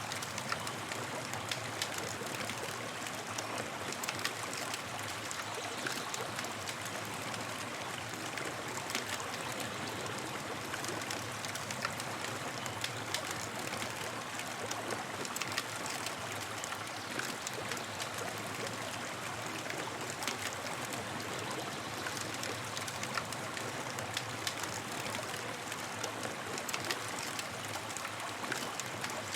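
Campfire burning with a steady hiss and frequent small crackles and pops scattered through it.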